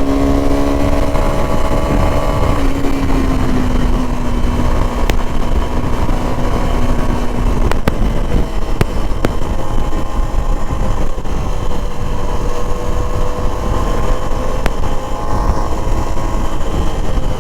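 Suzuki V-Strom SX 250's single-cylinder engine running at steady cruising revs under way, its note easing down a little about two to three seconds in, over a heavy rumble of wind on the microphone.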